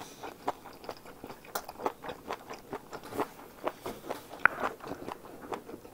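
A person chewing food close to the microphone: soft, irregular clicks and smacks, several a second.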